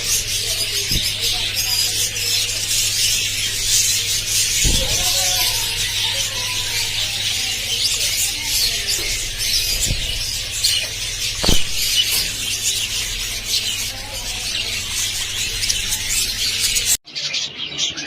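A flock of budgerigars chattering and chirping continuously, a dense mix of high warbles, squeaks and short chirps over a steady low hum. About a second before the end it drops to quieter, more separate chirps.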